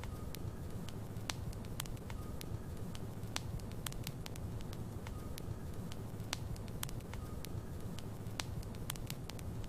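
Logs burning in a fireplace: a steady low rumble with sharp, irregular crackles and pops, several each second.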